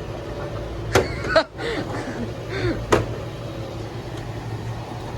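Steady low motor hum, with two sharp knocks about two seconds apart.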